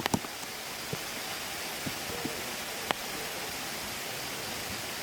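Steady rushing of a mountain stream, with a few sharp clicks near the start, about a second in and, loudest, near three seconds in.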